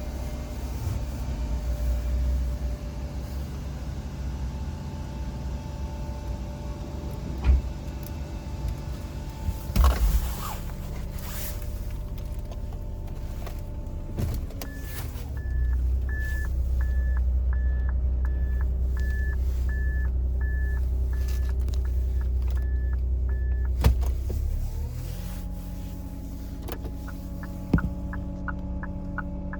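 Suzuki Wagon R (MH23S) 660 cc three-cylinder engine idling, with a few knocks. About halfway through, the engine note dips as reverse is selected, and the reverse warning buzzer beeps repeatedly, about twice a second, for some eight seconds. Near the end the turn-signal relay starts ticking.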